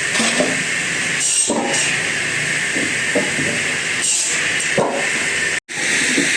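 Wood-processing machinery running with a steady hiss, with irregular knocks and clunks of wood being handled. The sound breaks off for an instant near the end.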